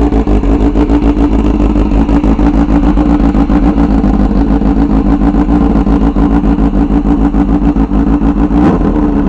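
A 2006 Kawasaki ZX-6R's 636 cc inline-four idling steadily and loud through an open exhaust with the pipe removed, with a quick blip of the throttle near the end.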